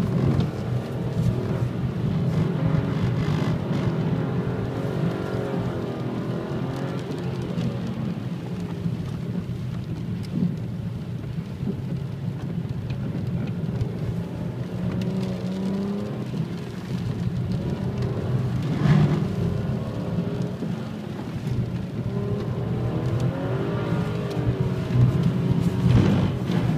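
BMW 335i's turbocharged straight-six engine heard from inside the cabin while driving on a wet track, with a steady running note. The revs rise and fall a couple of times, under a hiss from the wet road.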